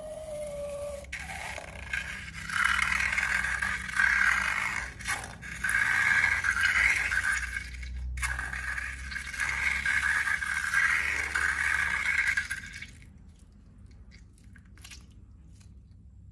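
Slime being scraped and worked in long, repeated strokes, about four swells of gritty scraping that stop about three seconds before the end.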